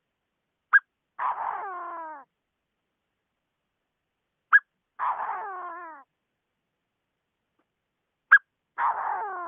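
Chinese francolin calling three times, about every four seconds: each call is a short sharp note followed by a harsh, stuttering phrase of about a second that steps down in pitch.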